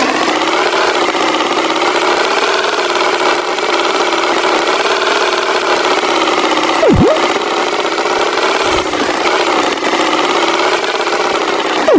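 Tractor engine sound effect running steadily, its pitch wavering slightly. A quick swooping sound falls and rises in pitch about seven seconds in and again at the end.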